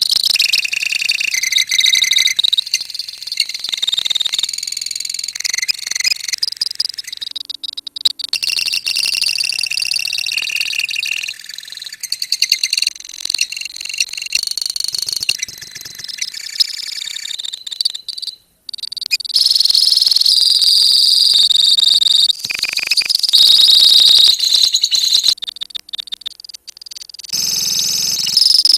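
A colony of lovebirds calling together: dense, high-pitched chattering and rapid trilling ('ngekek').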